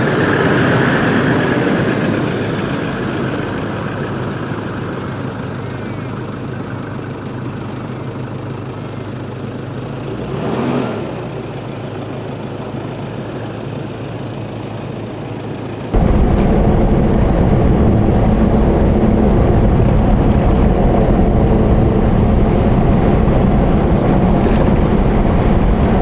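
A 4x4 driving: steady engine and road noise, with a brief swell about ten seconds in. About sixteen seconds in the sound cuts abruptly to a louder, deeper rumble.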